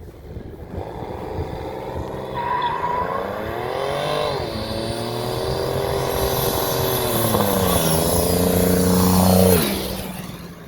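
Turbocharged V6 of a 1996 Pontiac Transport minivan accelerating hard at full boost, its pitch climbing and dipping twice at upshifts, about four and eight seconds in. It cuts off suddenly near the end as the throttle is lifted.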